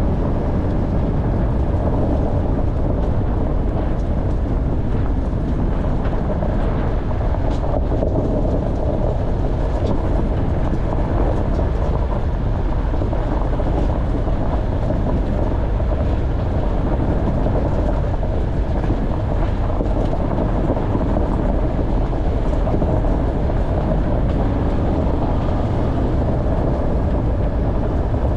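Off-road vehicle driving over a rough track: a steady, unbroken rumble of engine and tyres, with a few faint knocks.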